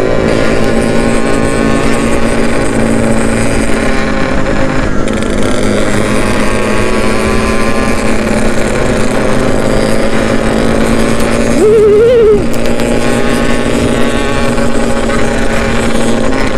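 Yamaha RX-King's 135 cc single-cylinder two-stroke engine running steadily under way, its pitch drifting gently, over wind and road noise. About three quarters of the way through, a brief wavering tone sounds over it.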